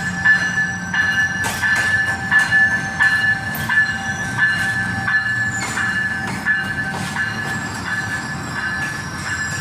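Train wheels squealing against the rail with one steady high tone while the train backs up slowly, with a click from the rail joints about every half second to second.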